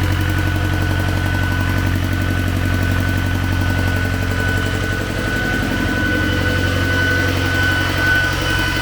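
T-40AM tractor's air-cooled four-cylinder diesel engine running steadily, still cold and smoking until the injectors warm up, with a thin steady whine above the drone. It runs without the chirping and tapping it had before repair, which the mechanics put down to valves not closing.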